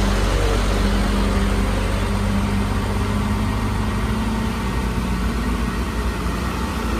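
Heavy vehicle's engine running steadily at low revs while it inches along.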